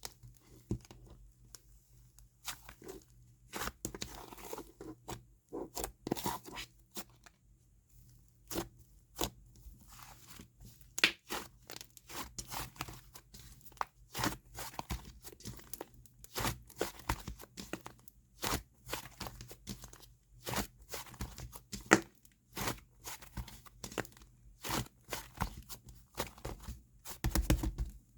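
Clay slime being squeezed and stretched by hand, giving irregular sharp pops and crackles, some in quick runs.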